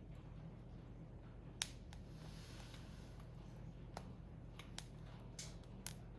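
Wood fire burning: scattered sharp crackles and pops of burning firewood over a faint steady background, the loudest pop about one and a half seconds in.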